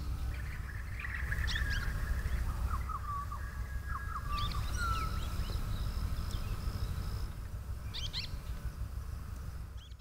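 Wild birds calling outdoors: clusters of short high chirps and whistled notes come and go over a steady low background rumble.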